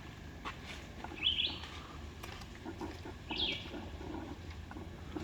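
A bird calling twice, about two seconds apart, each a short call sweeping down in pitch.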